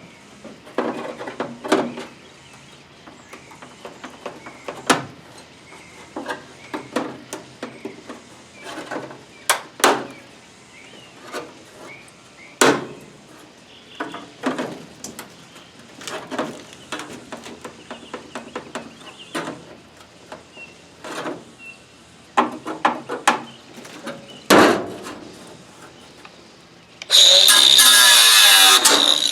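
Leftover strips of the 1963 Chevy truck's spot-welded roof sheet metal being pried and peeled off with a screwdriver and pliers: irregular metallic knocks, snaps and scrapes. Near the end a power tool runs loudly for about two seconds, then starts to spin down.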